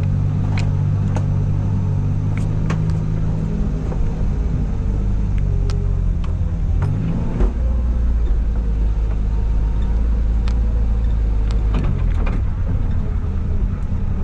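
Suzuki Jimny JA11's small turbocharged three-cylinder engine running as the 4x4 crawls along a dirt trail. Scattered sharp clicks and knocks occur throughout. A thump comes about seven seconds in, after which the engine note drops lower.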